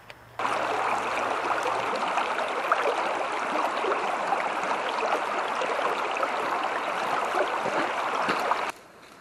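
River water running steadily. It starts abruptly about half a second in and cuts off abruptly near the end.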